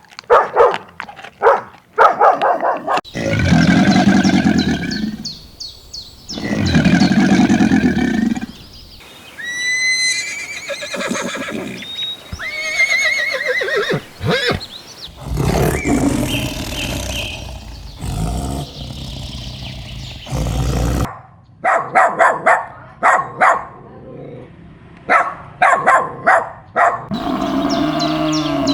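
A string of different animal calls one after another: long low calls, then high gliding chirps, then quick repeated pulses near the end.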